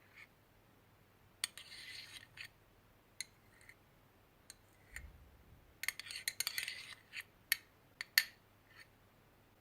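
A utensil scraping and clicking against a container in short bouts with sharp separate clicks, as slime ingredients are mixed by hand; the busiest stretch comes a little past halfway.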